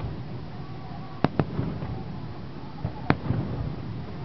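Aerial firework shells bursting: two sharp bangs close together about a second in, and another a little past three seconds, over a low rolling rumble.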